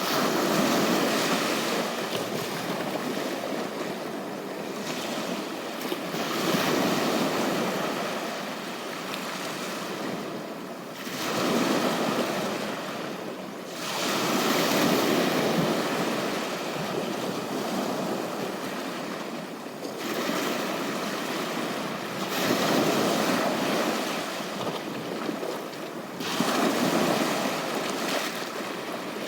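Ocean surf washing onto a beach, each wave surging up and falling back every four to six seconds.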